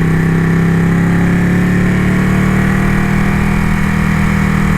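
Ducati motorcycle engine running at a steady, low road speed, its note edging up slightly about a second in and then holding, with wind and road noise.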